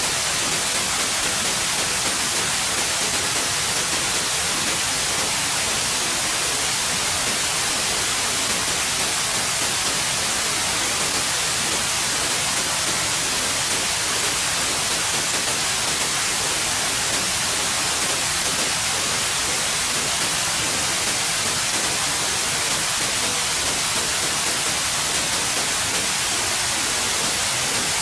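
Steady synthetic white noise: an even, unchanging hiss, heaviest in the high frequencies.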